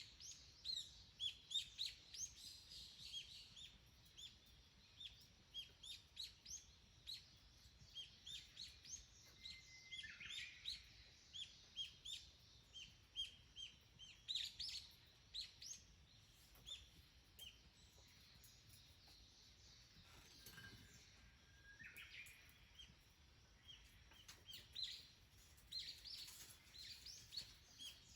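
Small wild birds chirping faintly: a long run of short, high chirps, several a second, coming in flurries that thin out and pick up again.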